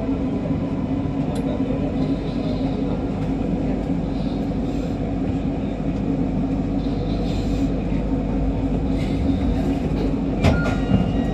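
MRT Kajang Line train, a steady low hum of the train heard from inside the front car, with a single sharp knock about ten and a half seconds in.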